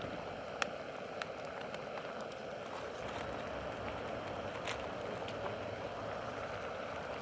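Campfire burning with a steady hiss and a few sharp, separate pops.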